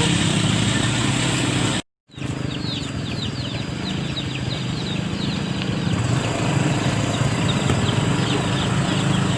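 A small engine runs steadily, probably a motorcycle's, cutting out abruptly for a moment about two seconds in and then carrying on. After the cut, a run of short, high, falling chirps sounds over it for several seconds.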